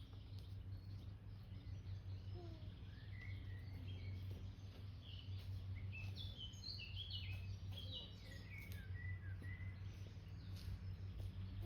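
Small birds chirping in quick, short high notes, over a steady low background rumble.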